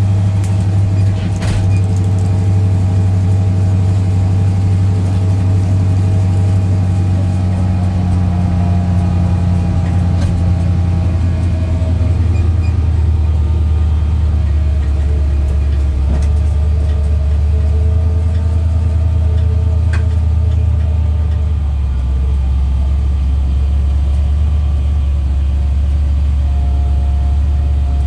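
Small-block Ford 302 V8 of a 1984 Mustang bracket car running at low revs, heard from inside the cabin as the car rolls slowly, with a steady deep rumble. About three-quarters of the way through, the engine note drops a little as the revs settle lower.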